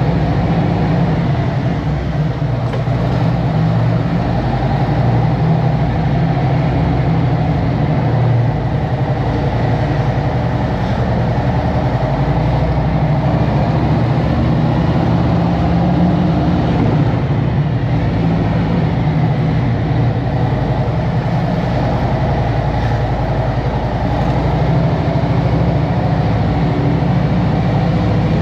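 2023 Harley-Davidson Road Glide Special's Milwaukee-Eight 114 V-twin, fitted with a Stage 1 Screaming Eagle air cleaner, running steadily: a loud, even low rumble with no sharp revving.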